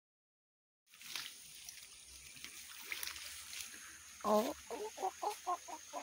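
Silence for about the first second, then open-air ambience with a faint steady high hiss. From about four seconds in, a bird gives a quick run of short clucking calls, about four a second.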